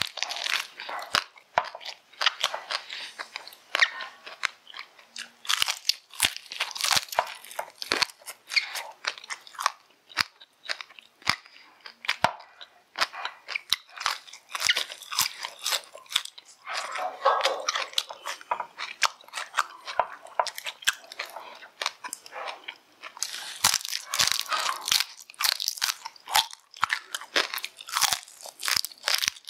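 Close-miked eating: crisp crunching and chewing as a person bites into fried meat and fresh lettuce leaves, a dense run of sharp crackles.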